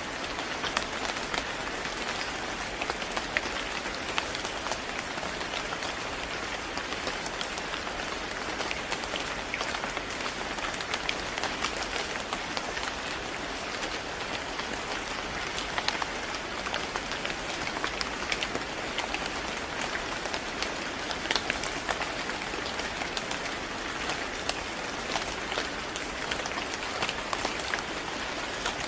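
Steady rain falling on a hard surface, an even hiss with many separate drop ticks scattered through it.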